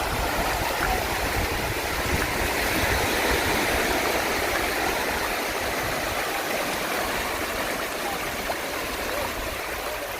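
Surf washing onto a beach, a steady hiss of waves that swells a little in the middle, with wind rumbling on the microphone.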